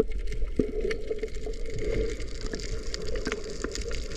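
Sea water sloshing and lapping around swimmers, with small scattered splashes over a low steady rumble.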